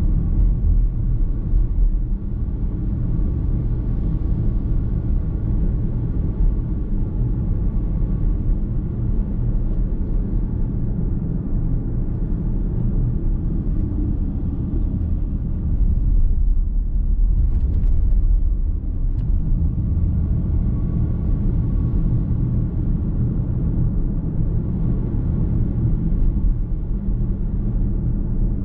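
Car cabin road noise while driving: a steady low rumble of tyres and engine heard from inside the car, with a few brief ticks a little past halfway.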